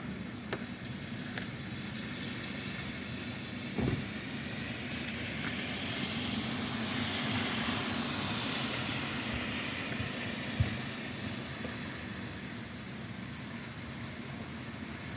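A vehicle passing on a wet road during rain, its tyre hiss swelling and fading over several seconds in the middle, over a steady background hiss. One short sharp knock comes about ten seconds in.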